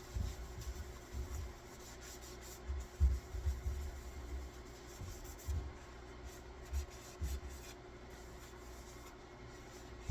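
Light rubbing and scraping with scattered low knocks of handling, over a steady hum.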